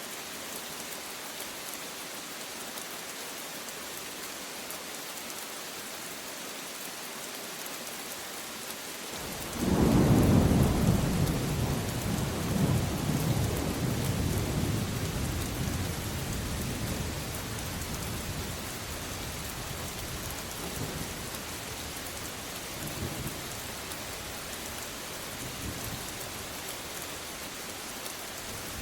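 Steady rain falling, with a thunderclap breaking in about nine seconds in: a sudden loud low rumble that slowly rolls away over the following ten seconds or so.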